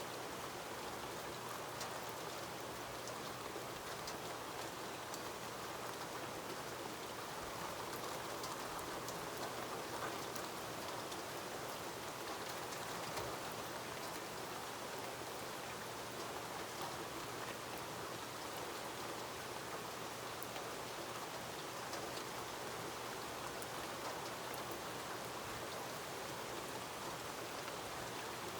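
Steady rain falling, a constant hiss with many separate drops ticking through it.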